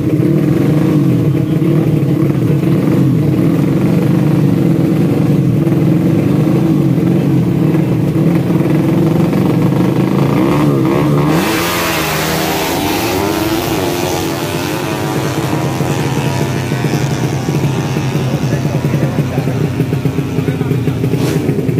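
Four-stroke motorcycle engines of tuned drag bikes running. The steady engine drone turns abruptly about halfway through into a hissier, thinner sound.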